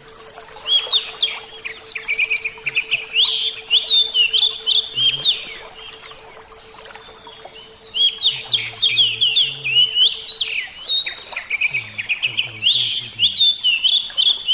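Oriental magpie-robin singing, fast runs of sweet chirps and whistles in bursts of a few seconds, with short pauses between them.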